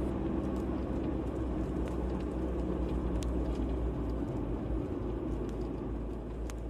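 Steady low rumble of a car driving, with a few faint ticks; it begins to fade out near the end.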